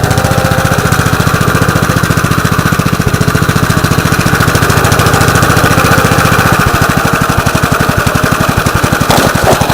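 A 1948 Gravely Model L walk-behind tractor's single-cylinder engine runs steadily with an even firing beat while driving its rotary plow through wet ground. The low engine note shifts about two-thirds of the way through, and a short knock comes near the end.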